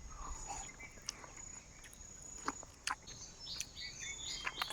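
Forest ambience: a steady high insect trill with scattered clicks, joined about three seconds in by repeated short bird calls.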